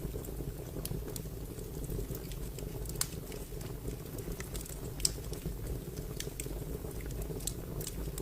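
Wood fire crackling: a steady low rumble of flames with irregular sharp pops and snaps, the two loudest about three and five seconds in.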